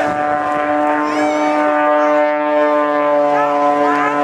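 Propeller-driven aerobatic biplane's engine droning at a steady pitch, with a deeper note joining about two seconds in.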